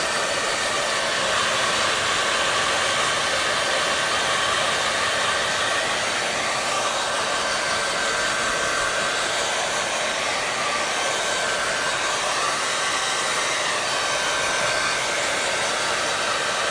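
Hair dryer running steadily: an even rush of blown air with a faint steady whine from the motor.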